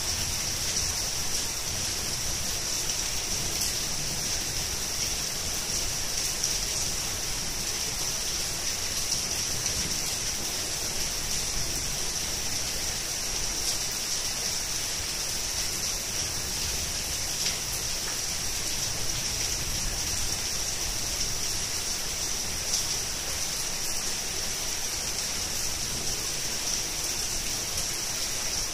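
Heavy rain falling steadily, an even hiss with a few brief louder drop hits.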